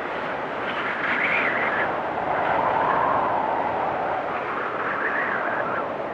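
Storm wind blowing in gusts with a whistling note that wavers up and down in pitch. A gust swells about a second in, peaks near the middle, and eases off toward the end.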